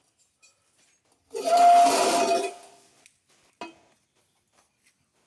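A clatter of metal on metal, lasting about a second with a ringing tone in it, followed by a single light tap.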